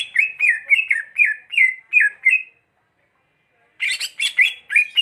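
Green leafbird (cucak hijau) singing: a fast run of short, downward-slurred chirps, about three or four a second, then a pause of about a second and another burst of chirps near the end.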